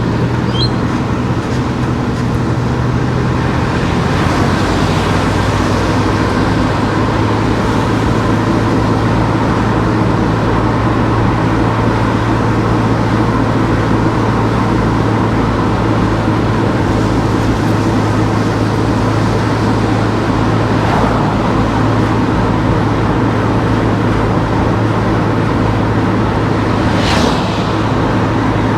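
Car driving on town streets: steady engine hum and tyre and road noise, the hum dropping slightly in pitch about four seconds in, with a brief hiss near the end.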